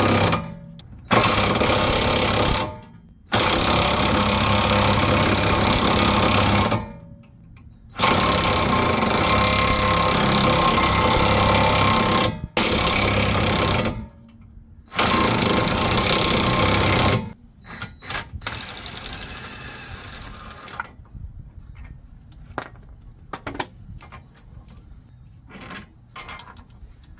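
Impact wrench hammering in six bursts of a few seconds each with short pauses, driving the forcing bolt of a wheel bearing press tool against a pressed-in front wheel bearing. About 17 seconds in it stops, leaving quieter clinks and knocks of metal tool parts being handled.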